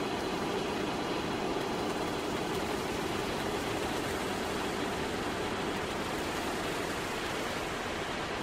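Steady, even hiss of noise with no tune, voice or beat.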